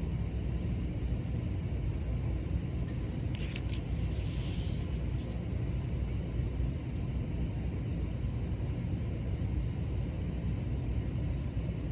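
Steady low background rumble of room noise, with a faint brief rustle about four seconds in.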